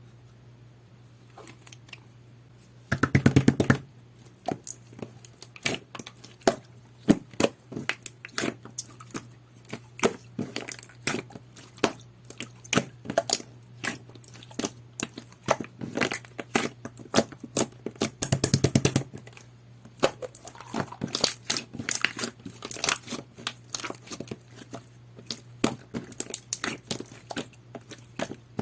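Jelly-textured slime being squished and worked by hand, making a string of wet clicks and pops. Two louder runs of rapid crackling come about three seconds in and again about eighteen seconds in, over a faint steady low hum.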